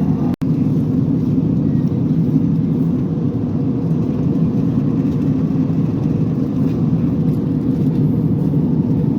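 Steady jet-engine and airflow noise heard inside an airliner's passenger cabin, cutting out for an instant about half a second in.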